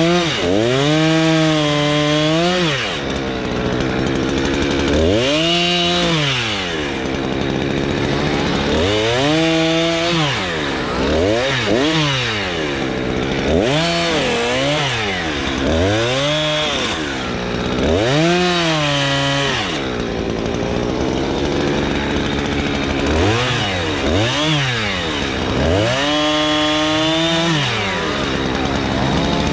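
Two-stroke chainsaw engine revving repeatedly: the pitch climbs to full throttle, holds for a second or two, then drops back toward idle, about a dozen times in a row.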